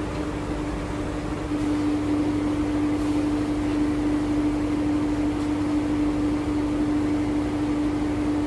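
A cargo boat's engine running steadily: a steady hum over a noisy rumble, growing louder about one and a half seconds in and then holding.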